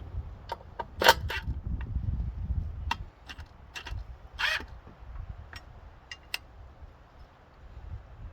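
Handling noises of straps and clips being fitted to hold a wooden chainsaw holder in place: scattered clicks and knocks, the loudest about a second in, and a short scrape a little past the middle.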